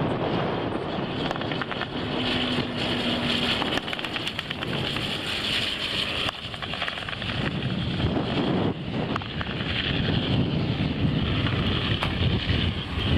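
Aircraft engine noise, a steady rumble, with wind buffeting the microphone.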